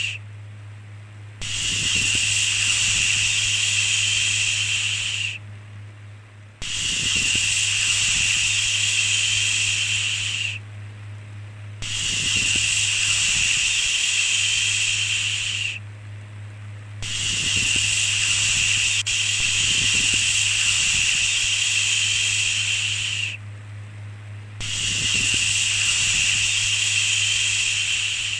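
A long 'shhh' shushing sound repeated over and over, each one lasting about four seconds with a pause of about a second between them, over a steady low hum.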